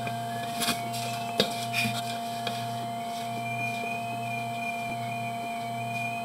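Steady electrical hum under a low drone that pulses on and off about every second and a half, with a few sharp clicks in the first two seconds.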